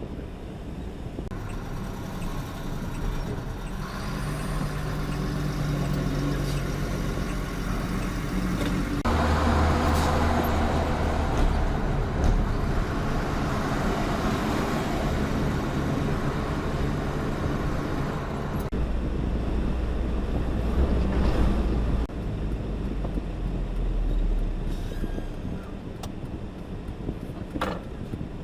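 Truck engine and road noise while driving. The engine note shifts a few times, with a louder stretch from about a third of the way in.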